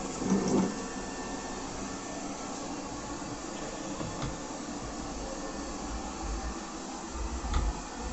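Lefant M210P robot vacuum running with a steady motor and suction noise, with two brief louder sounds, one just after the start and one near the end.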